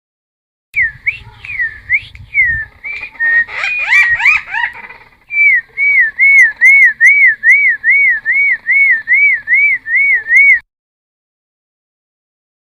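Cucak timor (helmeted friarbird) singing loud whistled notes. A tangle of quick gliding calls comes first, then a fast run of about sixteen identical rising-and-falling whistles, roughly three a second. The song breaks off near the end.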